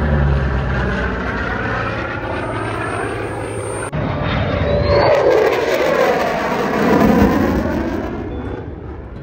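Propeller-driven aircraft flying past, its engine note dropping in pitch as it goes by, with a swirling, phasing quality. It swells again about seven seconds in and then fades away.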